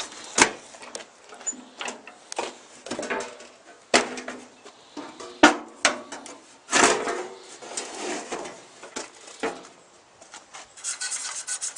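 Irregular knocks, clicks and short clattering handling noises, the loudest knock about four seconds in and a longer clatter near the seven-second mark.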